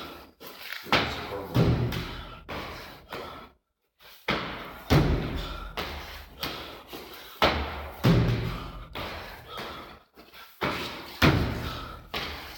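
Repeated heavy thuds on a gym floor during a CrossFit workout. A big impact lands about every three seconds, with smaller knocks in between.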